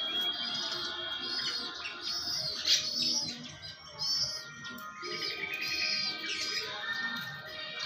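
High-pitched bird chirps repeating at a steady pace, about one short arching note a second.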